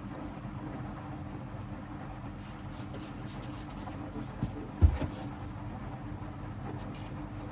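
Hoover washing machine running a wash, its drum motor humming steadily as the drum turns the load, with a dull thump about five seconds in.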